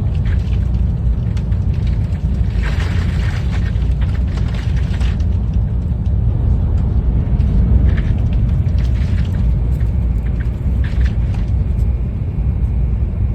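Tohoku Shinkansen train running at speed with a steady low rumble, broken by bursts of crackling and clattering as ice from the overhead wire strikes the train. The longest burst comes a few seconds in, and shorter ones follow near the middle and later on.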